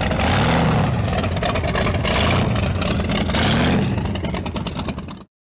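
Car engine being revved several times, its pitch rising and falling with each blip over a rapid exhaust rattle, then cutting off suddenly near the end.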